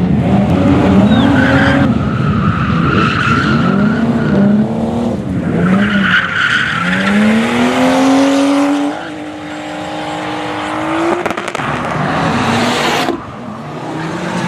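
Rally car engine revving hard, its pitch rising and falling again and again through gear changes and lifts, with tyres squealing twice in the corners. Later the engine note climbs steadily for a few seconds, then drops away suddenly near the end.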